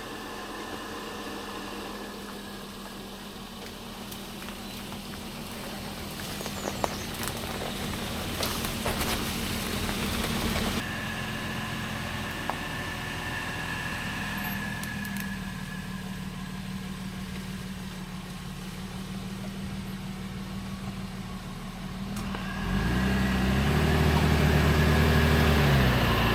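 Vehicle engine running as it drives a rough road, with a steady hum and a few seconds of gritty crunching noise about eight seconds in. In the last few seconds the engine gets louder and its pitch rises and falls as it works over the rough ground.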